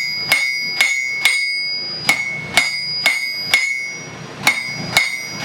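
Blacksmith's hammer striking hot steel on an anvil, about two blows a second, each blow ringing. The blows pause briefly about four seconds in, then resume.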